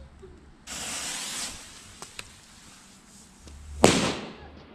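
A lit 1.5-gram firecracker: its fuse starts hissing about a second in and fades away, then it goes off with a single sharp bang near the end.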